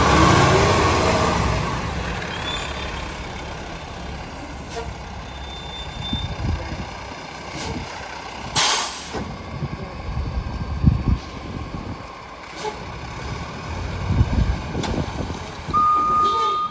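International HV garbage truck's diesel engine running, with a short hiss of air brakes about eight and a half seconds in. Near the end its reversing beeper starts sounding.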